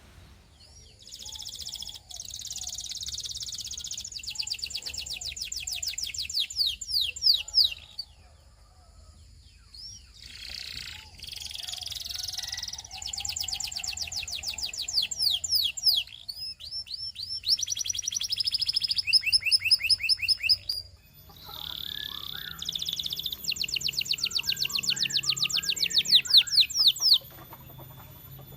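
Domestic canary singing: long rolling trills, each a fast run of repeated high notes, in phrases broken by short pauses, the longest about a third of the way in.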